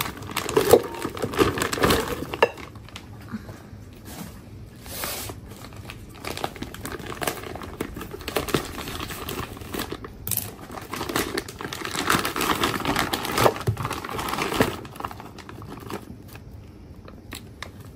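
Plastic vacuum packs of beef crinkling and rustling as they are handled and opened, in irregular crackles throughout.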